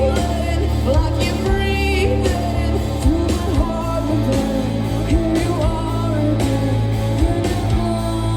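Live rock band playing amplified guitar, bass and drums, with a sung vocal line.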